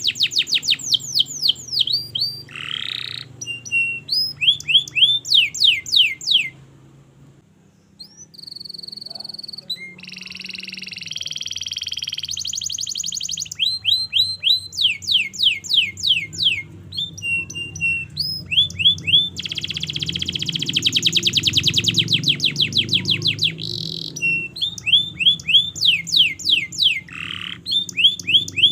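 Domestic canary singing a long song: runs of rapidly repeated, downward-sweeping chirps and fast rolling trills, with a brief pause about seven seconds in.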